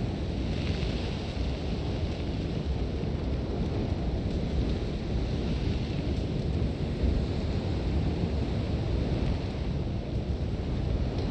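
Sandstorm wind blowing hard and steadily, with a deep low rumble of gusts and a hiss of blowing sand that swells about a second in.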